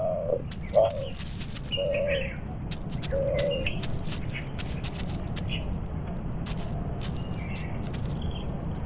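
Spotted dove cooing: a few low, soft notes in the first three or four seconds. Small birds chirp higher and briefly throughout, over a steady low background rumble.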